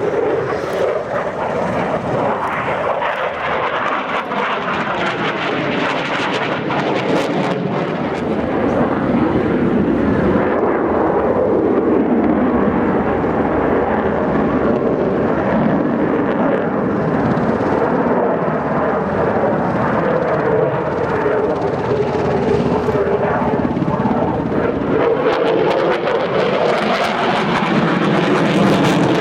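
Aircraft flying in a display, its engine noise loud and continuous, with tones that slowly rise and fall in pitch as it moves.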